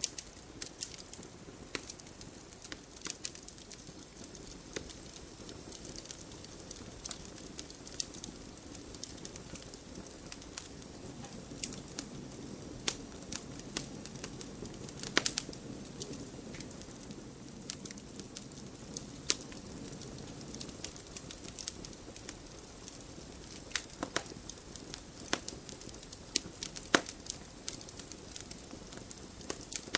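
Wood fire burning in a fireplace, with irregular sharp crackles and pops from the burning logs over a soft low rush of flames.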